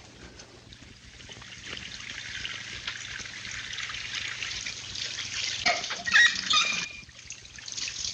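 Water spraying and running from leaking plumbing, growing louder over the first few seconds, with a short louder burst about six seconds in.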